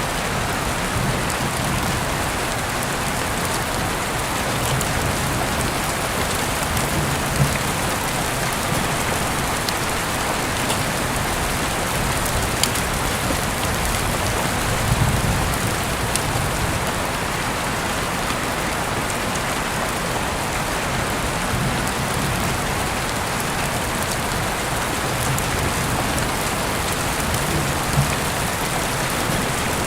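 Heavy rain falling steadily with a dense, even hiss, a few sharper drop clicks scattered through it, and a brief low rumble about halfway through.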